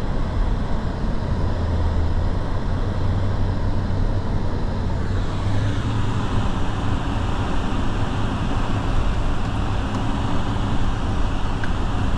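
Steady engine and tyre noise of a car driving on a snowy road, heard from inside the cabin: a low hum under a continuous rushing noise that grows brighter about five seconds in.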